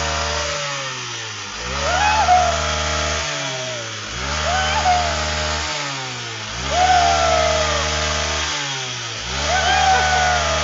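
Motorcycle engine in neutral, revved up and let drop back over and over, about every two and a half seconds.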